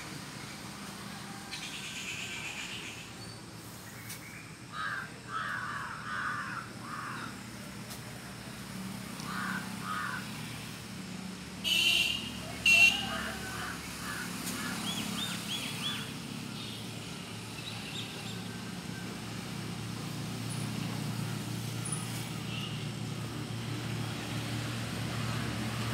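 Birds calling outdoors in short chirps, with two loud, harsh calls about halfway through. A low engine hum from a passing vehicle grows toward the end.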